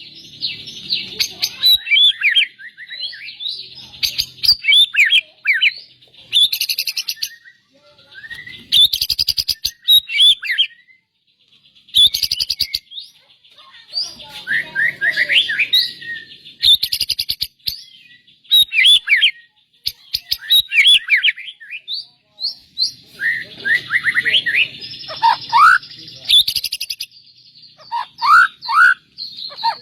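White-rumped shama (murai batu) singing loud, varied phrases of quick whistled and chattering notes, one every couple of seconds with short pauses between them.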